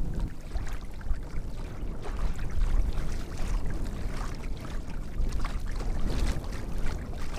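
Wind buffeting the microphone in a low rumble, with water lapping and splashing against a kayak hull.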